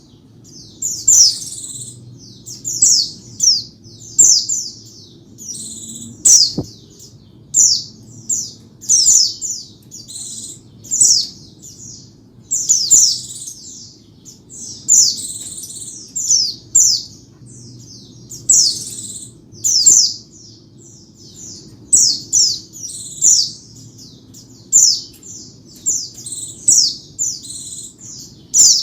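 White-eye (pleci) singing: short bursts of rapid, high, down-slurred twittering notes, repeated every second or two.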